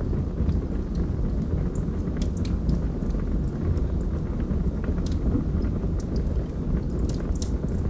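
Wood logs burning in a fireplace: a steady low rumble of the flames with scattered small crackles and pops.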